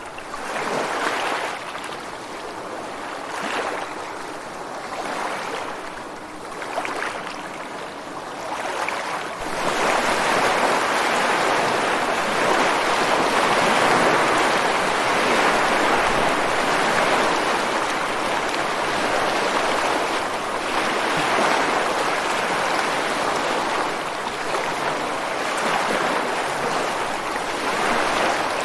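Ocean surf on a beach: smaller waves wash in and out in quick pulses, then about a third of the way in a larger wave breaks and a loud, steady rush of water carries on.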